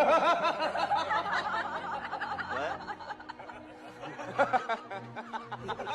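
Human laughter, loudest at the start, fading, then flaring up again briefly a little past the middle.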